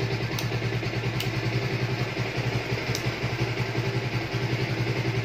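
Bajaj Pulsar 125's single-cylinder four-stroke engine idling steadily, with a few light ticks over it.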